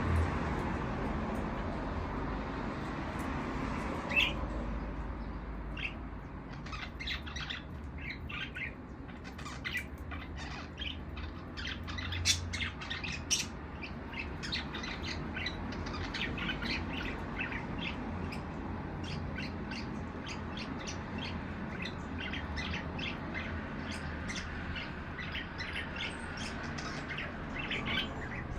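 Budgerigars chirping and chattering in many quick, high calls over a low steady rumble. The calls pick up about four seconds in.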